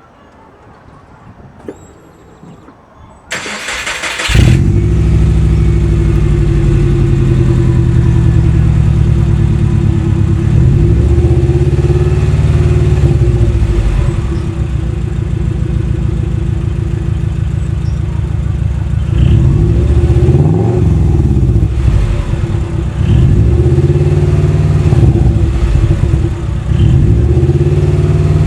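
2000 Subaru Legacy's 2.0-litre non-turbo flat-four, fitted with Borla headers and an HKS stainless rear exhaust, is cranked by the starter for about a second and catches about four seconds in. It then runs loud through the exhaust, with several revs rising and falling over the idle.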